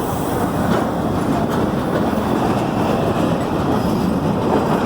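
Blue Ridge Southern freight train rolling past close by: a steady rumble of steel wheels on the rails, with faint clicks as the wheels pass rail joints.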